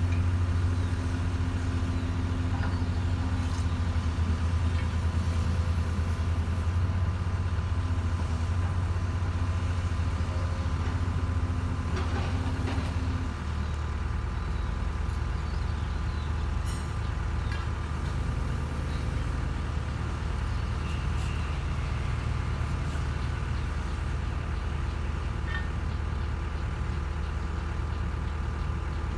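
Excavator's diesel engine running steadily and dropping to a lower, slightly quieter speed about halfway through, with a few faint knocks.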